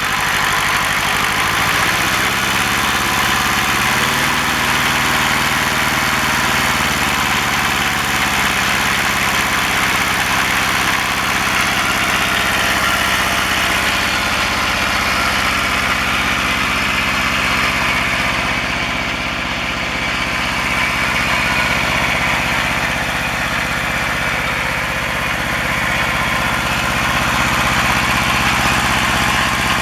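Kubota Z750 two-cylinder diesel engine in a Kubota L175 tractor running; its speed rises over the first few seconds and then holds steady. The engine is running again after sitting unstarted for at least two years.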